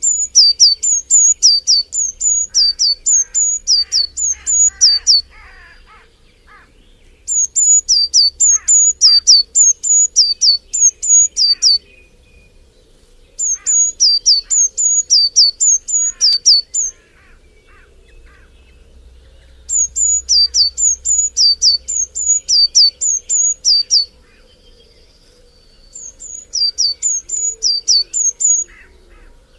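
A bird calling a sharp, high two-note call that drops in pitch, repeated rapidly, about three times a second, in five bouts of four to five seconds each with pauses of one to two seconds between them.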